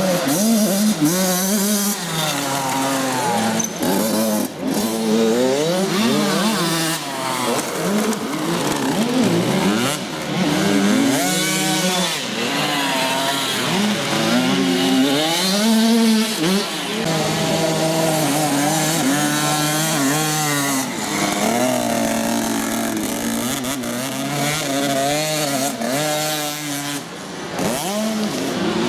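Several youth motocross bikes racing, their engines revving hard, with the pitch climbing and dropping again and again as riders work the throttle and shift gears.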